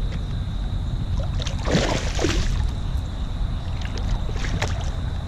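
Water and handling noise in a kayak: a steady low rumble, with a short splashing rustle about two seconds in and a few light clicks.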